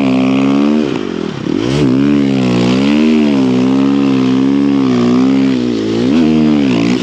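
Snow bike's single motorcycle engine being ridden under constantly changing throttle, its pitch rising and falling in waves. It drops sharply off throttle about a second and a half in and briefly again near the end.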